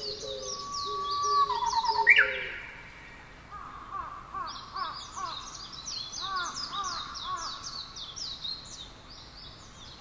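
Several birds singing together: a steady stream of rapid high chirps, a held whistled note ending in a loud sweeping call about two seconds in, then a run of lower repeated curved notes.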